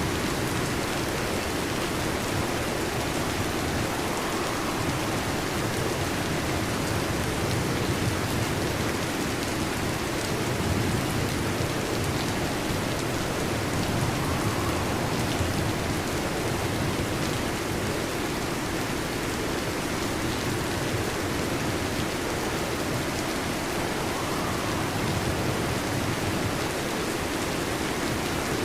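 Steady heavy rain falling, an even dense hiss that does not let up, with no sharp thunder claps.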